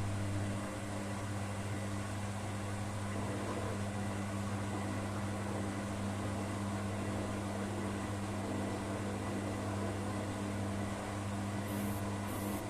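Beko washing machine running with a steady, even motor hum during a spin test, with a short click at the very end.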